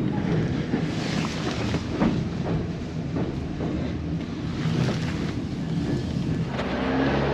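White Pass railway train noise: a steady rumble with a few scattered knocks, and a low engine hum that grows stronger near the end.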